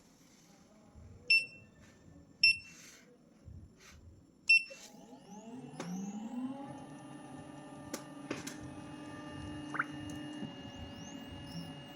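Three short electronic beeps. Then a motor whine rises in pitch for about a second and settles into a steady hum with a few clicks, like the beeps and motor of a resin 3D printer starting a job.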